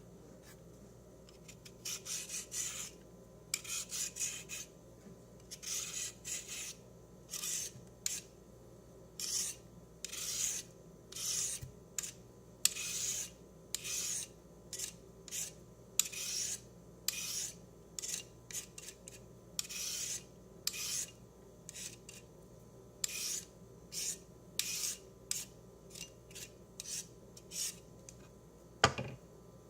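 Repeated rasping kitchen scrapes, about one stroke a second, each a short hiss, from food being worked by hand with a utensil. A sharper knock comes near the end.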